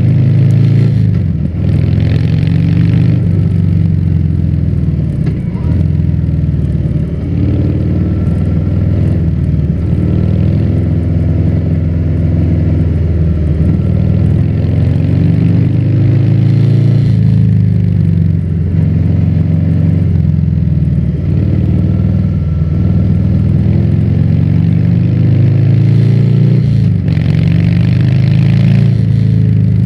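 Harley-Davidson Fat Bob's V-twin engine running loud through a Vance & Hines exhaust while riding. The pitch climbs and drops back several times as the bike accelerates and shifts gears.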